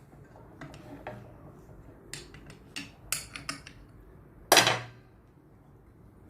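Clinks and knocks of a 17 mm wrench and metal parts on a Kärcher pressure washer's opened pump while the cam bolt is being loosened, with one louder metallic clank about four and a half seconds in.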